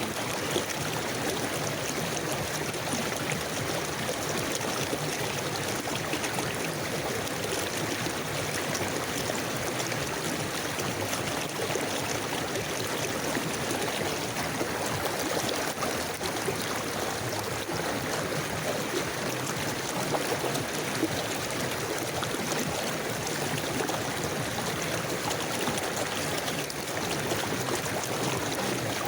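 River water flowing steadily over stones, with trickling and gurgling.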